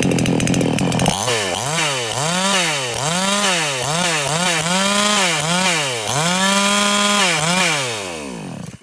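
Chinese-made two-stroke gas chainsaw running fast and steady for about a second, then revved up and down with the throttle about eight times. Near the end it is shut off and winds down to a stop.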